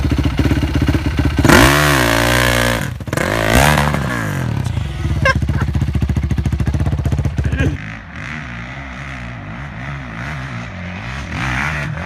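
Yamaha YZ450F single-cylinder four-stroke dirt bike engine running, blipped up and down twice in the first few seconds, then held steady. About eight seconds in it drops suddenly to a quieter, wavering engine note.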